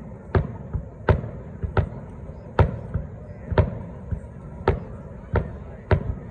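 Fireworks display: aerial shells going off in a steady run of sharp bangs, roughly three every two seconds, each with a short echoing tail.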